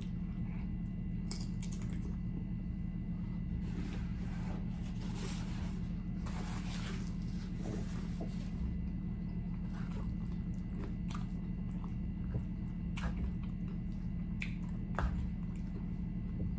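Close-miked chewing of a tortilla chip and a steak burrito bowl: soft crunching and wet mouth sounds with scattered clicks, over a steady low hum.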